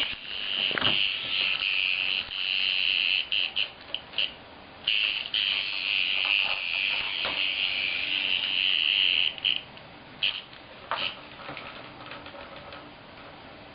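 Cicada buzzing loudly and harshly, in long stretches of several seconds broken by short stutters and a brief pause, ending in a few short bursts about ten to eleven seconds in.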